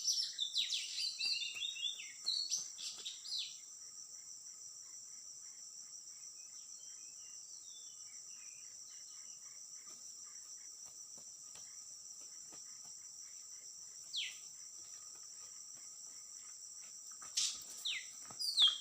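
Oriental magpie-robin song, a run of varied quick phrases for the first three or four seconds, over a steady high-pitched insect drone. After that the drone carries on alone, broken by a single falling whistled note about fourteen seconds in and a few more near the end.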